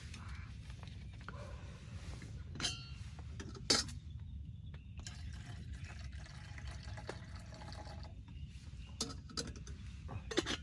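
Liquid being poured and sharp clinks of camp cookware, the loudest about four seconds in, over a steady low rumble of rain.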